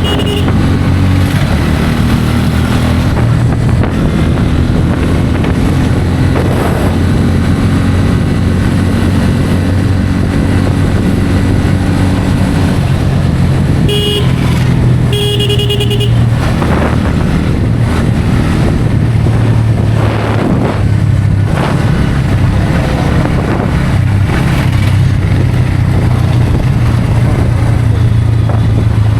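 Bajaj Pulsar N160's single-cylinder engine running at cruising speed, with wind and road noise. About halfway through, a vehicle horn honks twice: a short toot, then a longer one.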